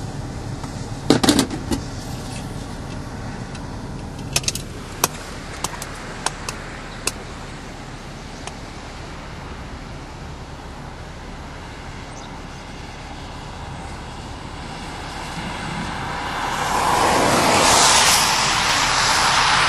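Steady road-vehicle noise with a few sharp clicks and knocks in the first seven seconds, then a broad rushing noise that swells near the end.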